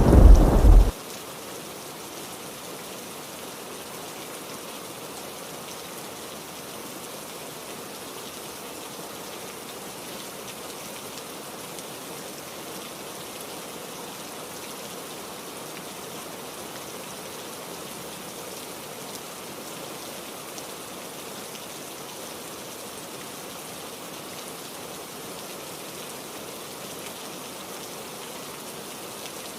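A loud rumble of thunder cuts off abruptly about a second in, leaving steady rain falling.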